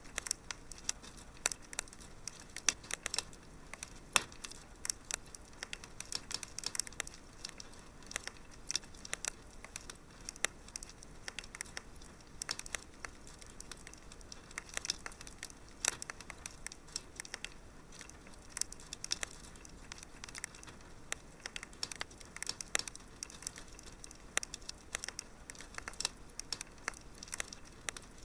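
Wood fire in a fireplace crackling: irregular sharp pops and snaps, several a second, over a soft hiss.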